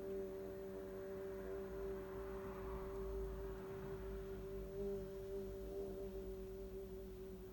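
A person's voice singing a long, sustained 'oo' (the vowel U) on one steady pitch, held as long as the breath allows in a vocal breathing exercise.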